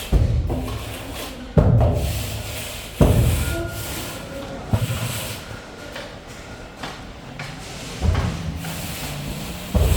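Heavy thuds from concrete screeding work, about six in ten seconds at uneven spacing, each dying away over a second or so.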